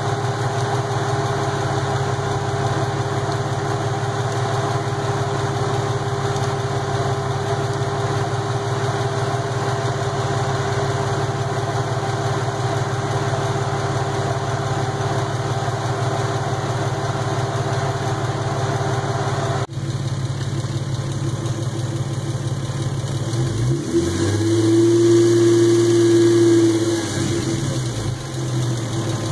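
Lexus IS300's Toyota straight-six engine idling steadily. The sound changes abruptly about two-thirds of the way in, and near the end the engine is revved once, its pitch rising and falling back over a few seconds, louder at the top.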